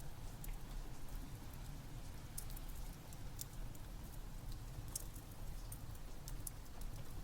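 Steady rain ambience with a fireplace crackling: a constant low rumble and hiss, with scattered sharp crackles and pops throughout.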